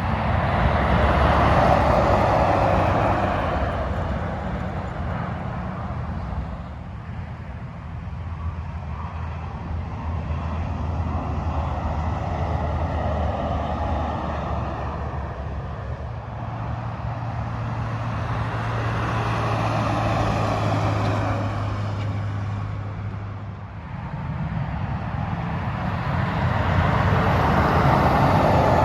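Freeway traffic, trucks and cars, passing at highway speed: a run of tyre-and-engine noise that swells and fades about four times as vehicles go by. Midway a low, steady engine drone holds for several seconds under one pass, then cuts off sharply.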